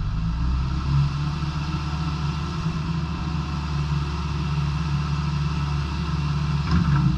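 Diesel engine of a Komatsu PC160LC-7 hydraulic excavator running steadily, with a short knock near the end.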